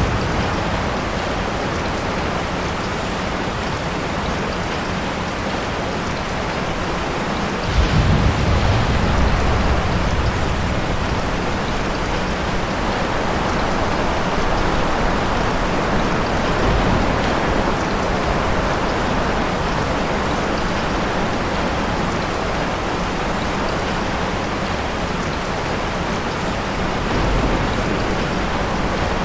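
Steady rain falling, with a sudden low rumble of thunder about eight seconds in that rolls on for a couple of seconds.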